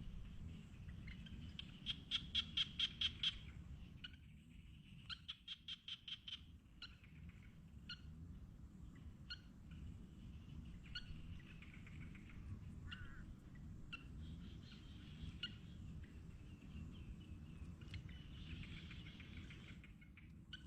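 Faint calls of small animals in the open: two bursts of rapid, evenly pulsed chirps, about five a second, a couple of seconds in and again about five seconds in, followed by scattered single chirps and a faint continuous trill over a low rumble.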